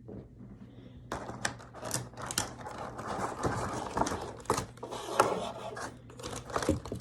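Rustling and rapid irregular clicking of plastic toy packaging being handled as small pieces are worked free, starting about a second in.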